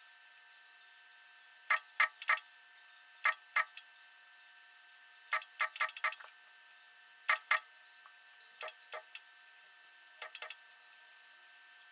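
Short, sharp clicks coming irregularly in twos and threes over a faint steady electrical hum.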